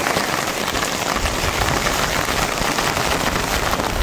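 Steady rain falling, a dense hiss of drops hitting surfaces, with a low rumble joining underneath about a second in.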